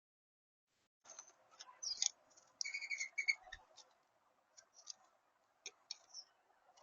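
Small birds chirping in short high notes among sharp clicks and ticks, starting about a second in.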